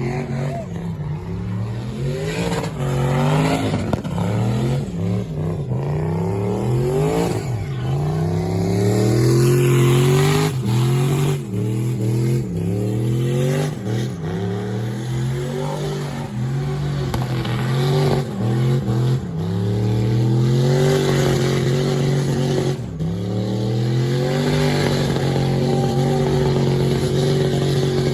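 A truck engine revving hard, its pitch climbing and falling over and over, then held high and steady near the end.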